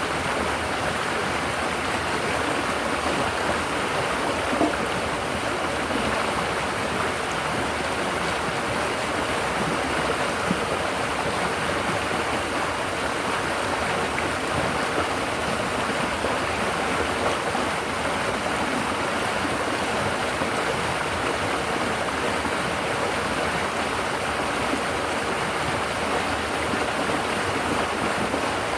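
River water flowing and babbling over rocks, a steady continuous rush.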